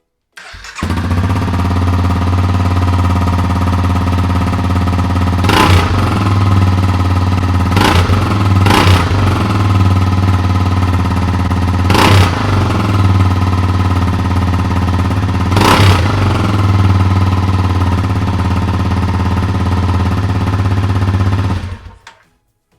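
Honda CRF250L's 250cc single-cylinder four-stroke engine idling through a decored, straight-through stock exhaust, with five quick throttle blips that rise and fall in pitch.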